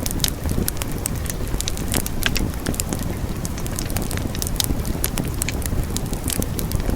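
Wood fire burning with a steady low rumble of flames and frequent sharp crackles and pops, several a second.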